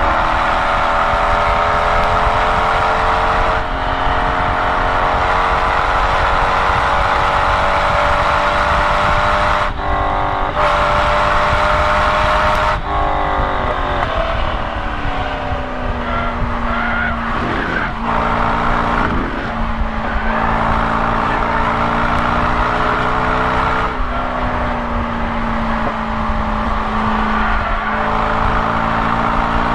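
A Corvette C5 Z06's LS6 V8 heard inside the cabin, driven hard on track: the engine pitch climbs under full throttle, broken by upshifts about 4 s and 10 to 13 s in. It then falls off under braking and downshifts before pulling again.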